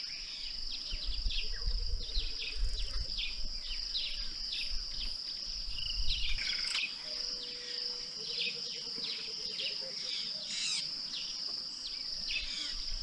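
Steady high-pitched insect drone with many short, falling bird chirps over it, and twice a lower buzzing call. Natural bush ambience at a river waterhole.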